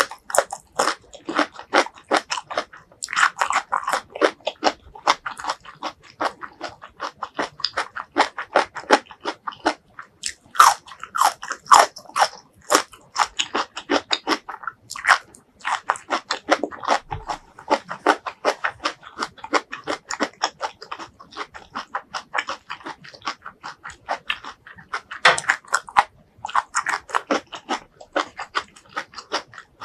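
Close-miked chewing of crisp stir-fried vegetables: a continuous run of quick crunches from the mouth.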